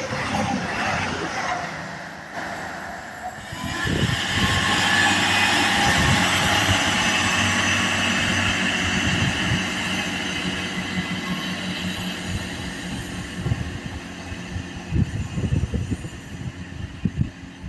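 A train passing on the rails: a loud rush of wheel-and-rail noise that swells sharply about three and a half seconds in and slowly fades, with irregular low thuds along the way.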